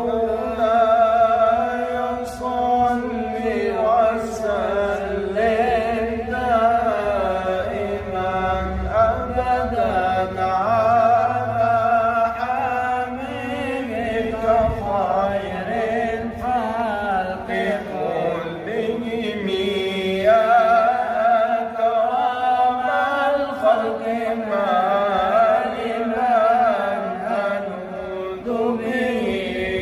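A man's voice chanting an Arabic religious poem in long, ornamented melodic lines, drawing out the notes with wavering turns. This is the melismatic style of Islamic inshad.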